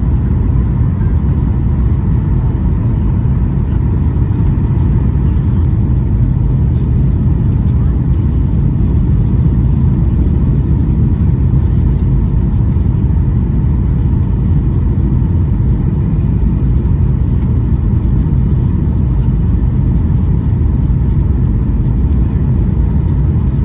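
Steady cabin noise inside a Boeing 737-800: a loud, even rumble from its CFM56-7B engines and the airflow around the fuselage, with a faint steady whine above it.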